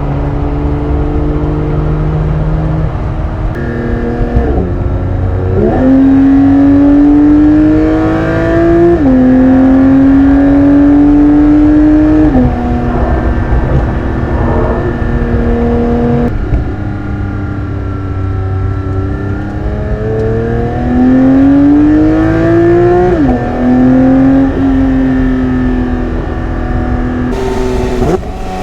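Porsche 992 GT3's naturally aspirated 4.0-litre flat-six pulling hard through the gears: the engine note climbs steadily in each gear and drops sharply at each upshift, several times over, with stretches of steadier running and lifting off in between.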